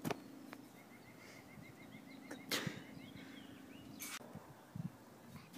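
Faint outdoor yard ambience: a small bird trilling, a quick run of short chirps at one pitch lasting about two seconds, over a steady low hum. Two sharp swishes or knocks come a little past the middle.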